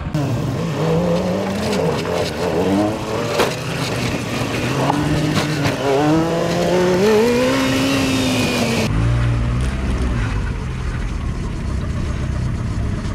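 An off-road 4x4's engine revving up and down as it climbs under load, its pitch rising and falling repeatedly. About nine seconds in the sound changes abruptly to a steadier, lower engine drone.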